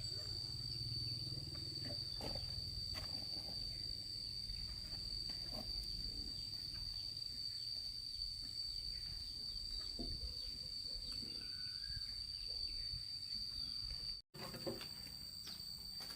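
Insects droning steadily as one unbroken high tone, with a low outdoor rumble and scattered light clicks and knocks. The sound cuts out for an instant near the end.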